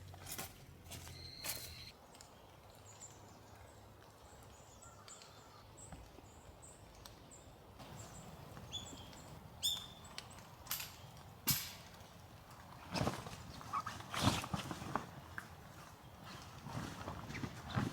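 Small birds chirping with short, high, repeated notes, then a string of sharp knocks and crunches, the loudest about two-thirds of the way through.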